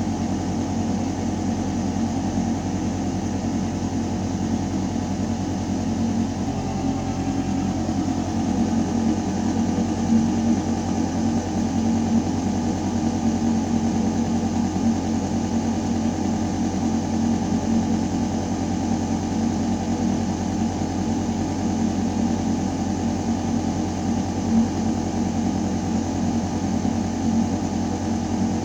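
Steady mechanical hum of a building's ventilation system: a low drone with air rushing through metal ducting. Its tone shifts slightly about seven seconds in.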